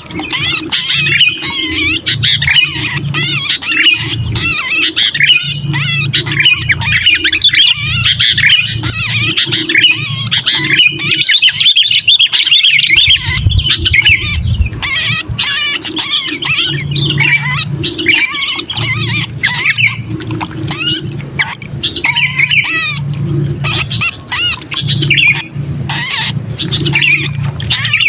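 Sooty-headed bulbuls calling in a dense, rapid, harsh chatter. This is the 'kejepit' distress call of a bulbul that has been caught or pinched, the kind used as a lure to bring wild bulbuls down. Under the calls, a low rumble comes and goes in pulses every second or so.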